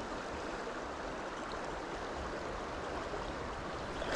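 Shallow mountain trout stream flowing: a steady, even rush of moving water.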